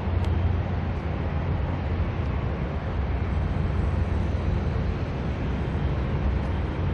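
Steady low outdoor rumble with an even hiss above it, with no single machine standing out, and one brief click about a quarter second in.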